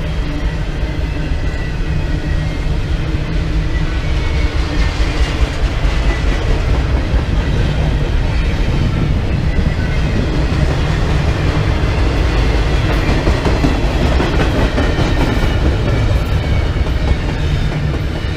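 A train rolling past close by: a loud, steady rumble of wheels on the rails, with some clickety-clack, getting a little louder about four and a half seconds in.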